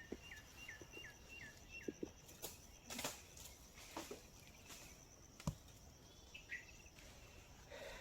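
A bird calling a quick series of short descending notes, about four a second, for the first two seconds over a steady high insect trill. A few faint sharp knocks follow later.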